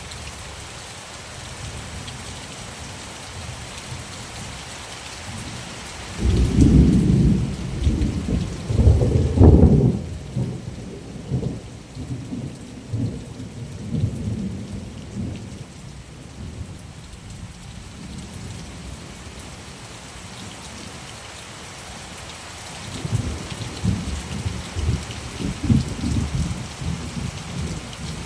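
Steady rain falling, with rolling thunder. One long rumble comes in about six seconds in, peaks a few seconds later and dies away, and a second rumble comes near the end.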